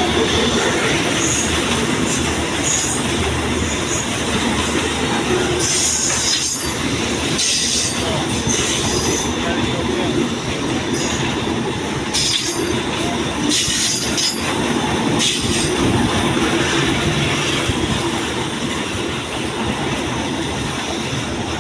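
A train passing close by: a loud, steady rumble of wheels on the rails, with short high-pitched wheel squeals several times.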